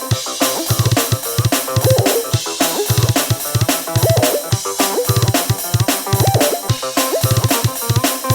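Drum kit beat with kick drum, snare and cymbals, played in quick steady strokes over a melodic backing song.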